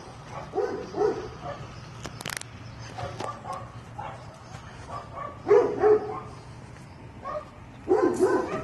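A dog barking repeatedly in short barks, the loudest two about five and a half seconds in, over a steady low hum, with one brief sharp noise about two seconds in.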